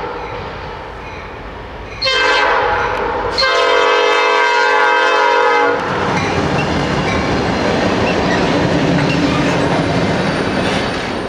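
Norfolk Southern freight train passing: the diesel locomotive sounds its horn, a short blast about two seconds in and then a longer one, after which the locomotive's engine and the wheels on the rails rumble steadily past with a clickety-clack.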